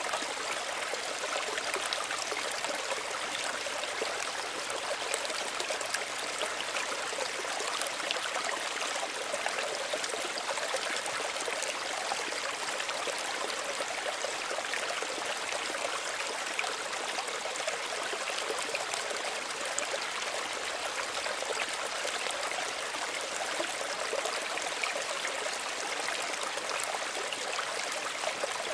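Small stream running steadily, an even babble of water with fine trickling detail.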